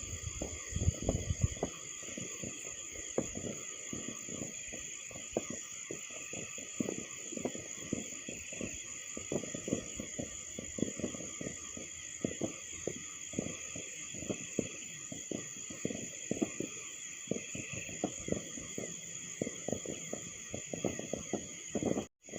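Many distant fireworks popping and banging at irregular intervals, over a steady chorus of crickets and other night insects.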